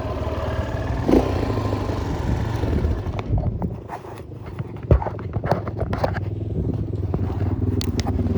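Enduro motorcycle engine running steadily at low revs. About three seconds in it eases off, and a run of sharp knocks and clatters comes through, the loudest just before five seconds in.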